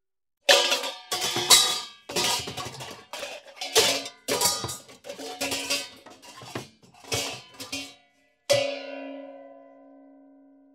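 Comedy sound effect: an uneven run of sharp, ringing, pitched percussive strikes for about seven seconds. After a short gap comes one final strike that rings on and slowly fades.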